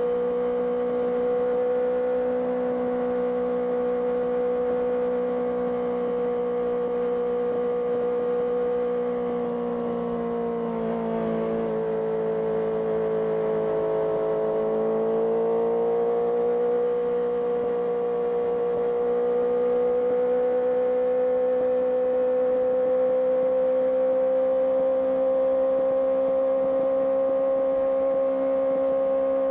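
Honda CBR650R's inline-four engine through an IXIL IXRACE aftermarket exhaust, running at a steady cruise. Its pitch sags slightly about ten seconds in, then climbs back and rises slowly toward the end.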